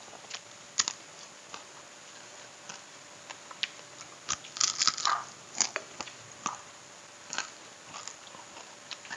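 A person biting and chewing crunchy fried catfish close to a clip-on microphone: irregular crisp crunches, most dense about halfway through.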